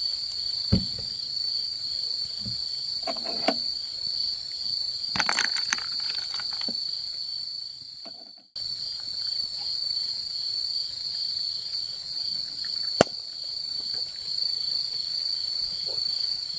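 Steady high-pitched chorus of night insects, with a few sharp crackles and pops from a campfire, the loudest about 13 seconds in. The sound drops out briefly just past halfway.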